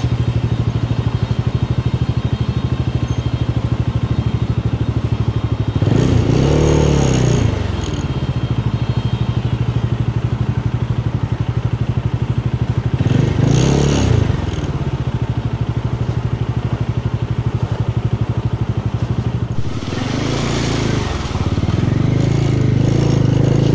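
Motorcycle engine running steadily while riding. Its note swells and falls back three times, about six, thirteen and twenty seconds in.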